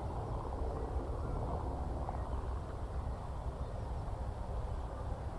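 Steady low rumble of open-country ambience, heaviest in the bass, with no distinct birdsong or sudden sounds standing out.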